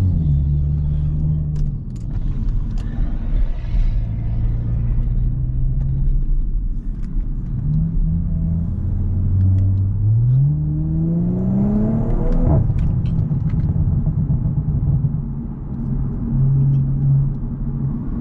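Audi S5 engine and exhaust under way: a steady cruising drone, then, about ten seconds in, the engine pulls hard with a rising pitch and drops off suddenly at an upshift before settling back to a steady drone.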